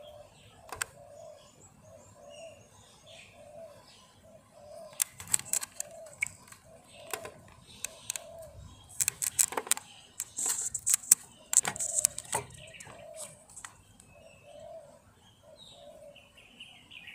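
Birds calling: a low, hollow note repeated about twice a second, with scattered higher chirps. From about five seconds in, a burst of sharp jangling clicks and rattles, louder than the birds, runs on for several seconds.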